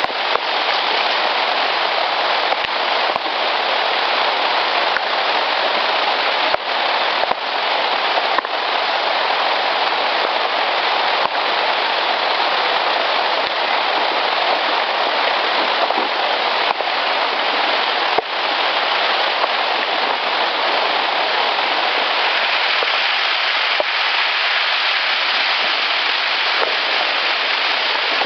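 Steady rain-like hiss from a field recording, with a handful of sharp clicks scattered through it.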